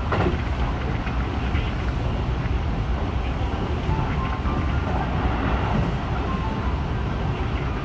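Running noise of a Keihan 3000 series electric train heard from inside the car: a steady rumble of wheels on rail. A sharp knock comes right at the start.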